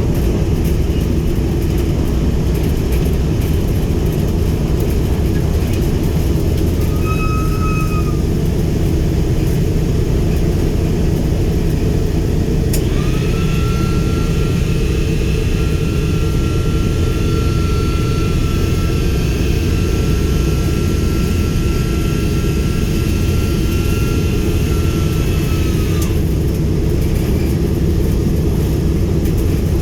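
The B-17G's four Wright R-1820 Cyclone nine-cylinder radial engines running steadily and loudly. A high-pitched whine or squeal sounds briefly about seven seconds in, then again for about thirteen seconds from about halfway through.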